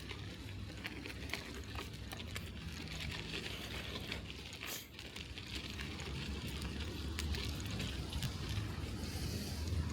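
Bicycle riding over a snowy street: a steady low rumble with many scattered small clicks and rattles, one sharper crack about halfway through, and a slight rise in level toward the end.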